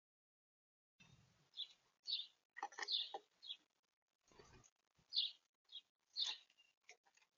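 Small birds chirping at a feeder in a series of short, high chirps that start about a second in. Two low rustling bumps come through too, about a second in and again mid-way.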